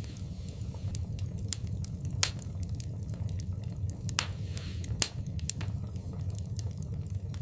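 Wood fire burning in a fireplace: a steady low rumble of the flames with irregular crackles and snaps, and two louder pops, about two seconds in and about five seconds in.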